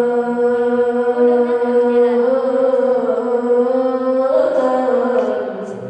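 A single voice chanting in the melodic Arabic recitation style, holding one long, slightly wavering note that lifts a little near the end and then fades away.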